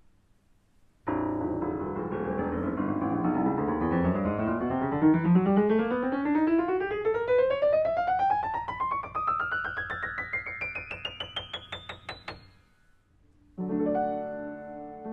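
A 1996 Yamaha U100 upright piano playing a long, fast ascending run that climbs steadily from the lower-middle register to the top notes and stops about twelve seconds in. After a short pause, a chord sounds and rings near the end.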